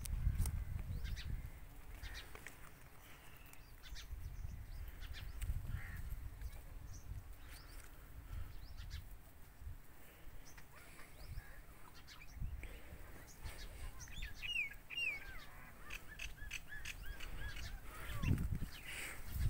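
Birds chirping and calling, with short rising and falling calls that cluster about two-thirds of the way through and again near the end, over a low uneven rumble.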